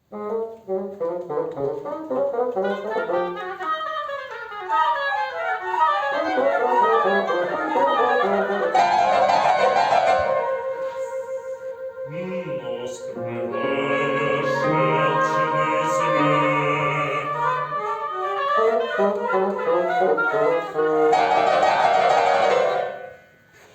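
Oboe, flute and bassoon playing an instrumental passage of classical chamber music: quick running figures, a middle stretch of long held chords over low bassoon notes, then quick figures again, ending abruptly.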